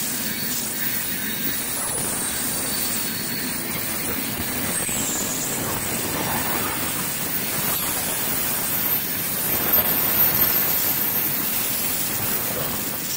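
Heavy freight train of open gondola wagons rolling past close by: a steady rumble and clatter of wheels on the rails, with thin high wheel squeals now and then and a few louder knocks past the middle.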